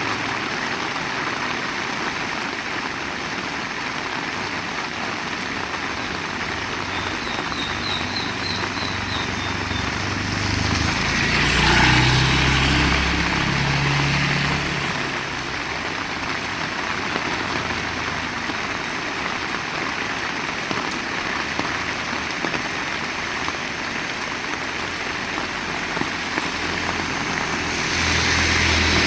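Heavy rain falling steadily. A motor vehicle engine passes about eleven to fifteen seconds in and rises again near the end. A short run of high chirps sounds faintly about a third of the way through.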